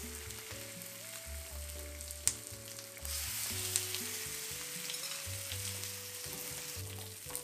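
Chicken pieces sizzling in hot oil in a cast-iron skillet, the sizzle growing louder about three seconds in as more pieces go into the pan. A sharp click a little over two seconds in.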